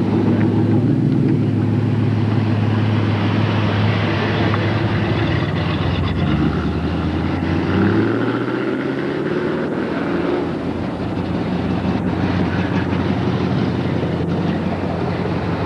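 A large engine running steadily with a low hum, its pitch rising over a couple of seconds about seven seconds in as it speeds up, then holding.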